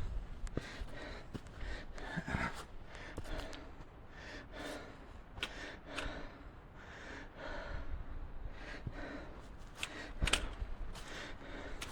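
A hiker breathing hard while climbing a steep trail, breaths coming about once a second, with footsteps on the trail.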